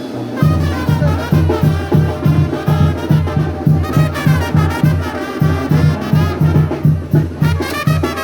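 Brass band music: trumpets and trombones playing a melody over drums and a low bass line pulsing on a steady beat.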